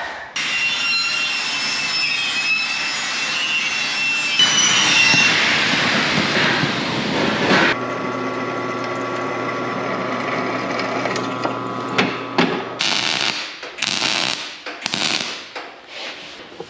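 Metal-fabrication shop noise in several cut-together stretches: first a power tool running with a high whine over broad noise, then a steady electrical hum, then short irregular bursts near the end.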